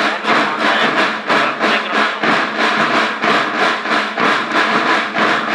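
School band drums playing a fast, steady beat of about four to five strokes a second.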